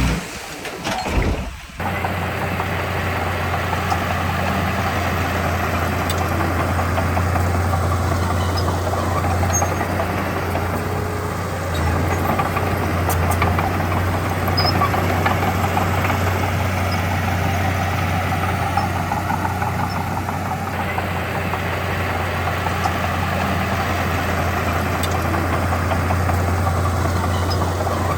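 Diesel engine of heavy earthmoving machinery running steadily with a strong low hum, settling into an even note about two seconds in after a short uneven start.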